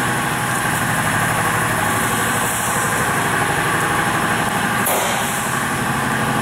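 Semi truck's diesel engine idling steadily, with a brief sharp click about five seconds in.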